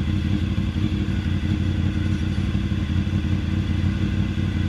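Honda VFR 750F's V4 engine running steadily at low revs through an open exhaust with no muffler.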